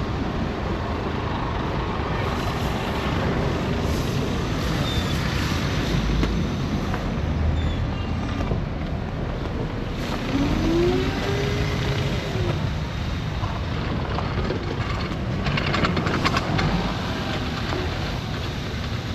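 City street in a snowstorm: a steady rush of vehicle traffic and wind, with heavy vehicles such as trucks or buses passing.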